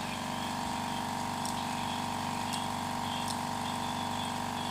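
A motor running steadily with an even, unchanging hum, with a few faint ticks over it.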